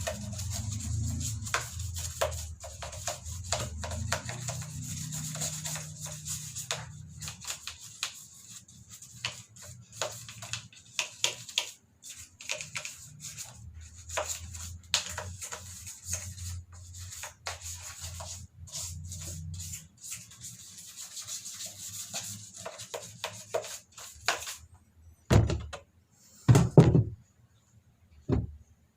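Irregular scrubbing and scraping strokes from cleaning a washing machine's pulsator by hand, over background music, with a few loud knocks near the end.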